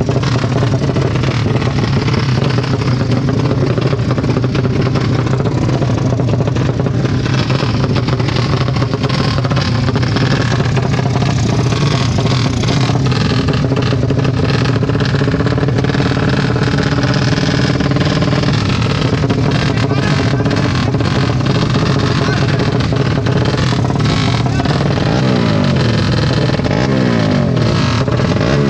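Several motorcycle engines running and revving loudly. Near the end, one engine's pitch sweeps up and down.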